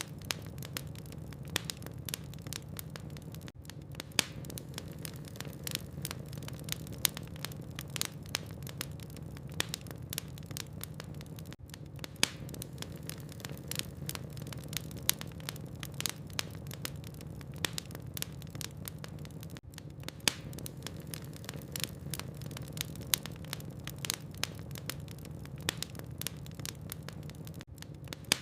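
Burning logs in a fireplace crackling: irregular sharp pops and snaps, a few a second, over a steady low hum.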